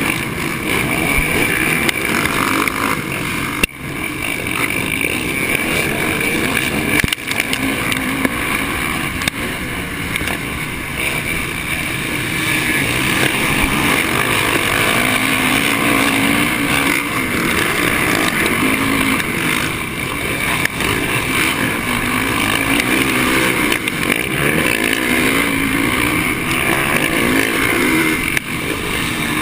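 Honda 450 motocross bike's single-cylinder four-stroke engine at race pace, the revs rising and falling again and again as it is throttled and shifted.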